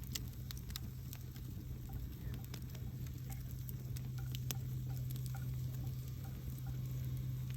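Campfire crackling, with irregular sharp pops and snaps over a steady low hum.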